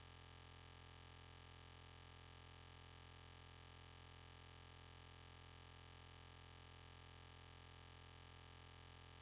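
Near silence: only a faint, steady low hum with light hiss.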